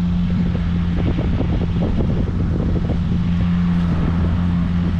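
Small boat's outboard motor running steadily at idle in neutral.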